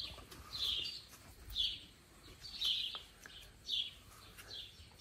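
A bird chirping repeatedly, short high chirps coming about once a second.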